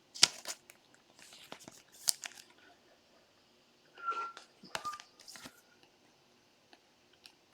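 Trading cards and their packaging being handled: scattered light clicks, rustles and crinkles, with a brief faint squeak about four seconds in.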